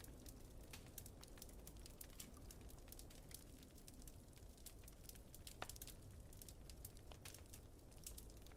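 Wood fire crackling in a fireplace: quiet, irregular small pops and snaps, with a steady low rumble underneath.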